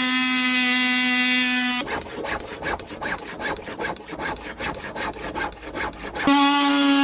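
A power saw's motor whines steadily, then gives way for about four seconds to rhythmic rasping strokes, about three a second, as wood is cut. The whine then returns.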